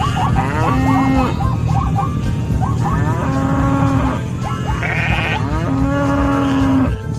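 Several farm-animal calls overlapping, pitched cries gliding up and down, over a steady low rumble. The calls break off briefly near the end.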